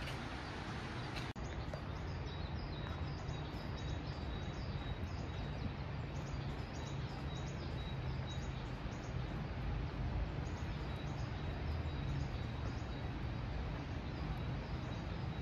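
Small birds chirping in short, high, repeated calls over a steady outdoor background rumble, with a brief dropout about a second in.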